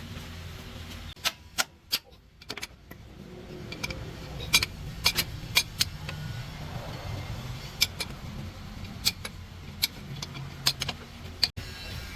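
Metal parts clinking and knocking while a truck gearbox is being worked on: a dozen or so sharp, irregular clinks over a low steady hum.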